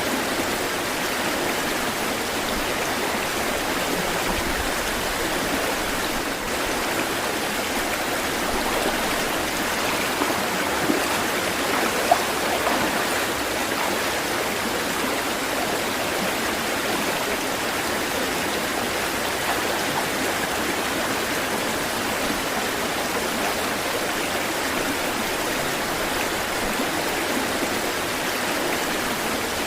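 Running water making a steady, even rush, with a couple of brief splashes standing out a little before the middle.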